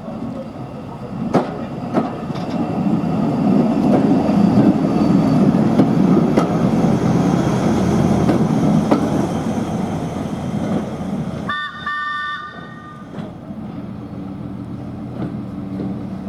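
A train passing by: a rumble that swells and then fades, with a few sharp clicks of wheels over rail joints. About twelve seconds in, a brief high multi-note warning blast sounds, broken once.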